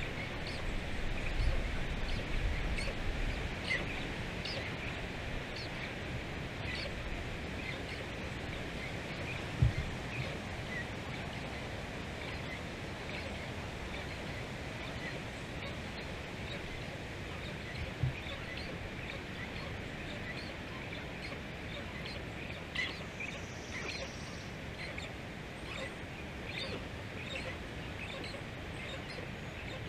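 Many short bird chirps scattered throughout, over a steady outdoor hiss, with two brief low thumps about ten and eighteen seconds in.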